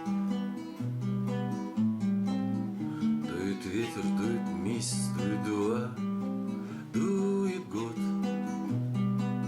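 Acoustic guitar strummed in chords: an instrumental passage of a song, with a brief wavering melody line near the middle.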